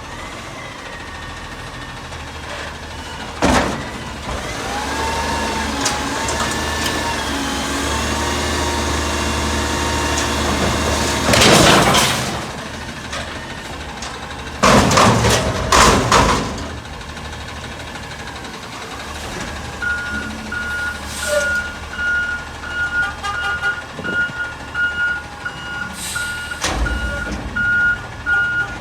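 Autocar garbage truck working: the engine runs with its pitch rising and falling, then loud bursts of noise come twice around the middle. In the second half its reversing beeper sounds a steady, repeated beep.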